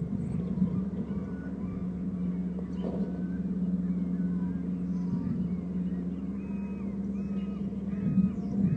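A steady low drone runs under faint, high-pitched bird calls. The calls come more often and in a repeating pattern over the last few seconds.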